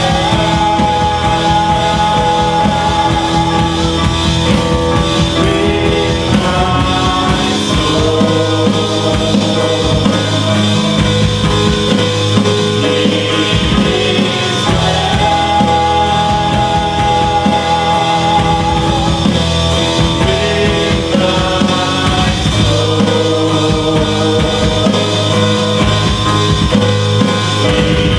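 Live worship band music: drums, guitar and keys playing, with singing.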